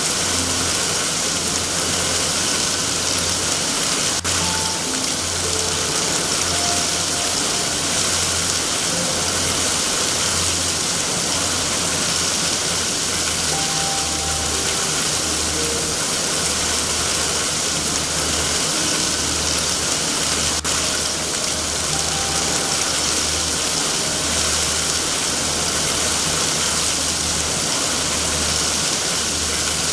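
Steady heavy rain hissing, over an uneven low rumble. Two sharp pops stand out, about four seconds in and again about twenty seconds in, like a fireplace crackling.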